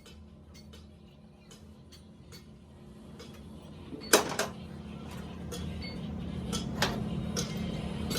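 Light metallic clicks and ticks of tools handling metal parts, then a loud clack about four seconds in, after which a steady low hum grows louder under further clicks.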